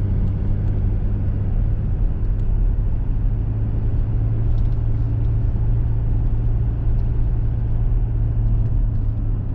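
Small truck's engine and tyres heard from inside the cab while driving, a steady low drone with an even hum.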